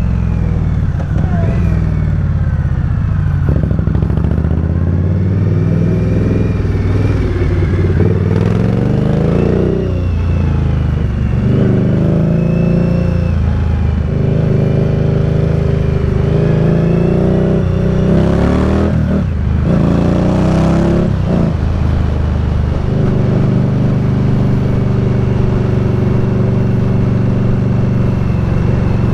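Indian Scout Bobber's V-twin engine under way, its pitch rising and falling again and again as it pulls and eases off, then holding steady at a constant speed for the last several seconds.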